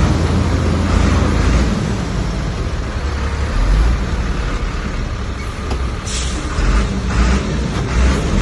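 Heavy diesel earthmoving machinery running under load, a steady low rumble, with a few short bursts of noise near the end.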